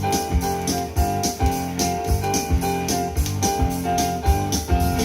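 Music with a steady beat, about two thumps a second, and a repeating keyboard-like melody. It is playing from a vinyl record on a Sony PS-X600 turntable, through a 1976 Harman Kardon A402 integrated amplifier and small Philips hi-fi speakers.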